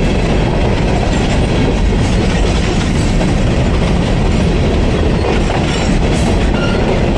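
CSX covered hopper cars of a freight train rolling past close by: steady, loud noise of steel wheels running on the rails.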